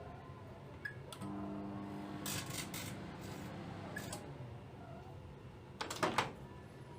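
Microwave oven running with a low hum while copper wires inside arc, giving sharp crackling snaps several times, loudest in a cluster about six seconds in.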